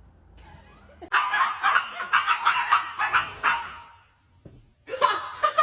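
A dog vocalizing: a rapid run of short, pitched yelping whines lasting a couple of seconds, then after a pause a longer drawn-out whine that falls at the end.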